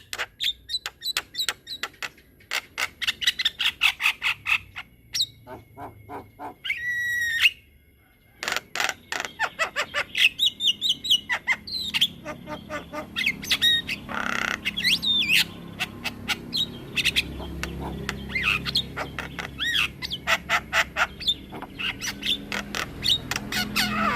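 Javan myna (jalak kebo) singing a long, varied song: runs of rapid clicking notes mixed with harsh squawks and whistled notes that bend up and down in pitch.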